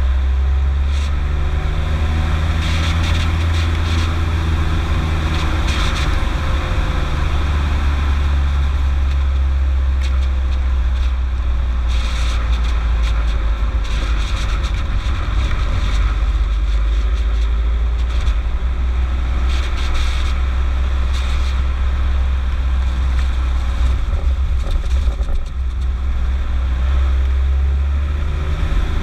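Skoda Octavia 1.9 TDI four-cylinder turbodiesel engine running while the car is driven: a steady, loud low drone whose note drifts up and down with engine speed.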